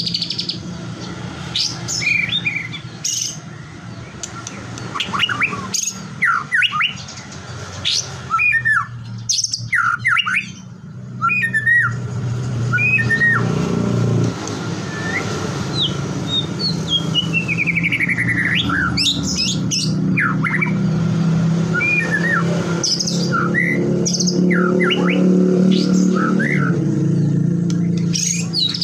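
White-rumped shama (murai batu) singing in bursts of quick whistled notes that sweep up and down, with a fast run of falling notes about two-thirds of the way in. A steady low hum runs underneath.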